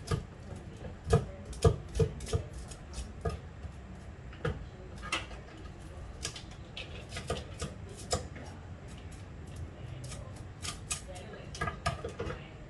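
Kitchen clatter: irregular clinks and knocks of utensils against dishes and pots, several a second at times, with a few louder knocks.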